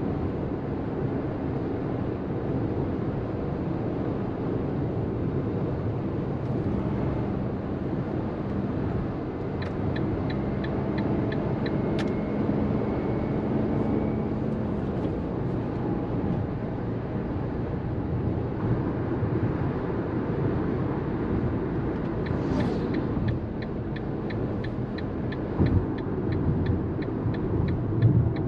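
Cabin sound of a Fiat Panda 1.0 BSG mild hybrid on the move: its naturally aspirated three-cylinder petrol engine running steadily under road rumble. A run of rhythmic ticking comes about ten seconds in, and again from about twenty-three seconds to the end.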